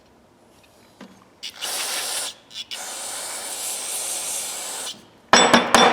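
Aerosol carburetor cleaner sprayed onto an adjustable wrench to flush grit from the adjuster: a short hiss, two quick bursts, then a steady two-second spray. Near the end, a quick run of sharp metallic clicks and knocks as the wrench is handled.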